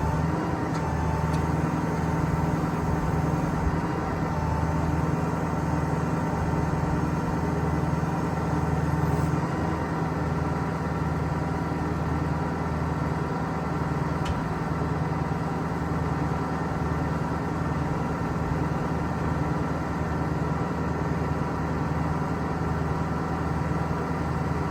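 Ford F550's Power Stroke turbo diesel engine running steadily at idle while powering the boom's hydraulics, an even drone with a faint steady whine above it.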